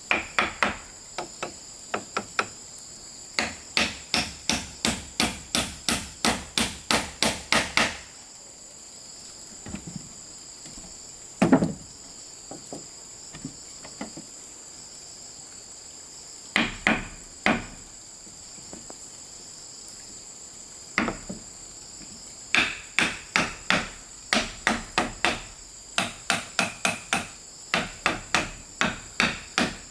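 Rapid runs of hand-tool blows on bamboo, about three strikes a second, broken by pauses and one heavier single knock about 11 seconds in, over a steady high-pitched drone of insects.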